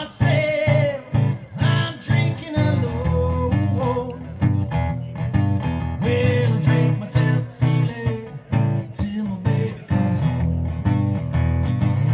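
Live acoustic set: a man singing to a strummed acoustic guitar.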